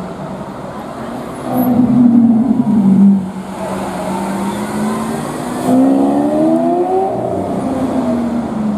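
Supercar engine running on the street, with loud blips of throttle about two seconds in and the revs climbing from around the middle, as the car accelerates.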